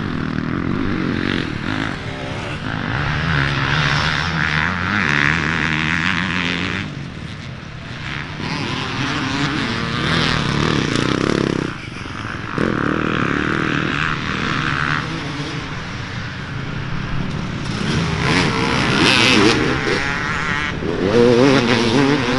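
Dirt bike engines revving as racers ride past on the course, the sound swelling and fading several times as bikes come and go.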